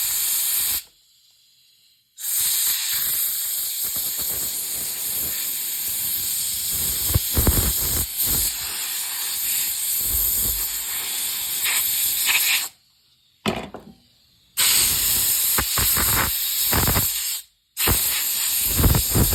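Compressed air hissing from an air-compressor blow nozzle in long blasts that stop abruptly three times with short pauses, with one brief puff in between, blowing metal shavings and weld spatter off welding magnets.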